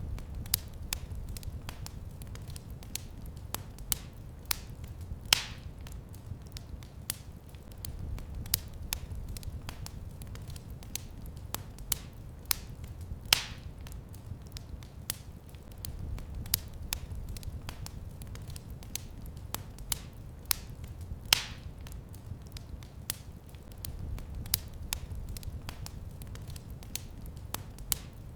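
Fireplace fire crackling: a steady run of small snaps and ticks over a low rumble, with three louder pops about eight seconds apart.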